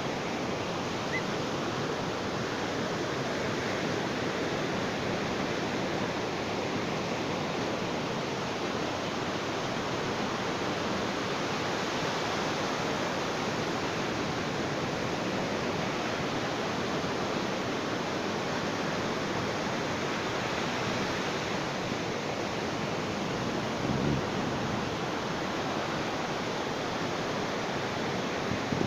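Ocean waves washing on a beach: a steady, even rush of surf.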